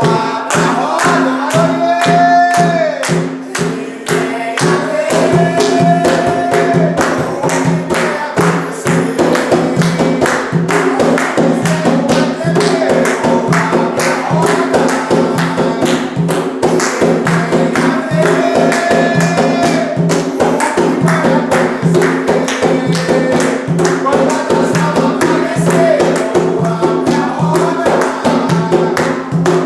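Umbanda ponto sung by a group over hand drums and shaken or struck percussion, a fast, steady, dense beat with voices rising and falling over it.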